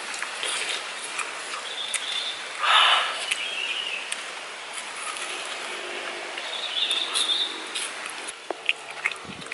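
Close-up chewing and mouth sounds of a person eating a fire-roasted banana, with small clicks throughout and a brief louder noise about three seconds in. Short high chirps sound in the background.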